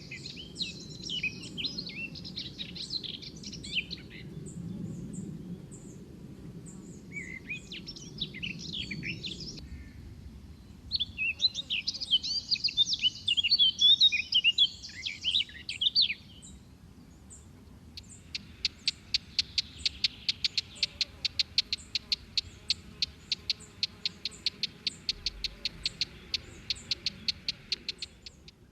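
Small birds singing in three bursts of quick, high twittering. Then, from a little past the middle, a steady run of short, sharp chip notes about five a second.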